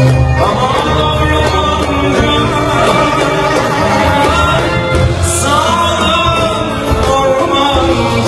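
Live band music with a male singer's voice, a Turkish folk-pop song played with a steady beat, in a large hall.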